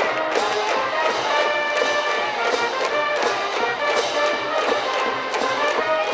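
Brass band cheering music: a brass melody played over regular drum beats.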